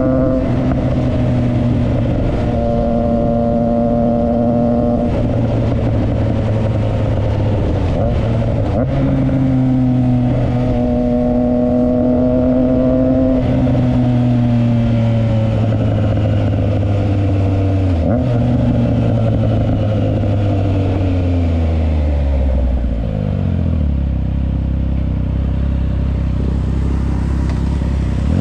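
Triumph Trident 660's inline three-cylinder engine through a Yoshimura exhaust, running at steady speeds with brief changes in pitch. From about halfway it winds down with falling pitch, settles to a low idle about 23 seconds in, and revs up sharply at the very end.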